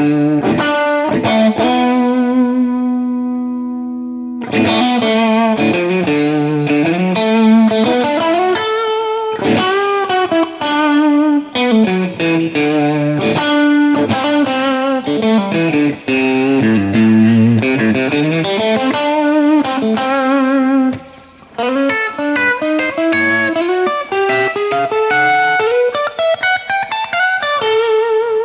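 Overdriven electric guitar through a Fender Blues Junior tube amp with spring reverb from an Electro-Harmonix Oceans 11 pedal. A chord rings out and fades over a few seconds, then a Phrygian-flavoured lead riff follows with bent and vibrato notes, pausing briefly about two-thirds of the way through.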